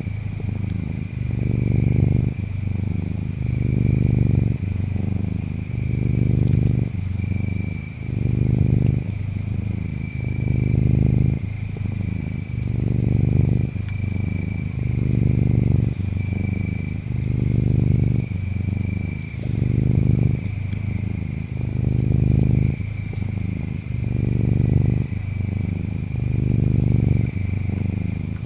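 Cat purring, a deep rumble that swells and eases about every two seconds with each breath. Behind it runs a steady high insect trill with regular chirps.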